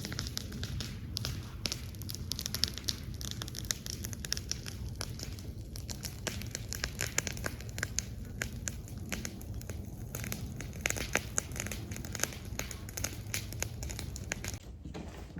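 Burning brush pile crackling, sticks snapping and popping in quick irregular clicks over a low steady rumble.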